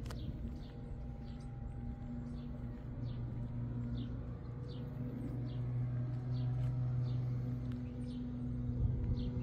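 A bird repeats a short, high, falling chirp over and over, over a steady low hum like a distant engine, which grows a little louder midway.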